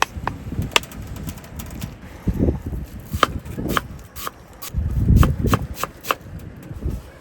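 Kitchen-knife and utensil handling during food preparation: scattered light clicks and taps, with a few dull thumps.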